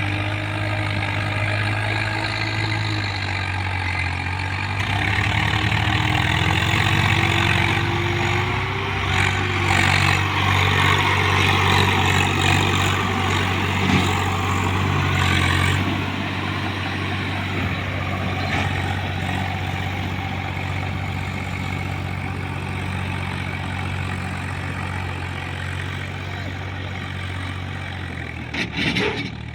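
Swaraj 744 tractor's three-cylinder diesel engine running steadily while hauling a fully loaded trolley. It gets louder for about ten seconds, starting around five seconds in, then eases gradually.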